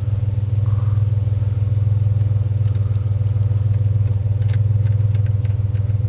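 A vehicle engine idling steadily, with a few light clicks and knocks near the end.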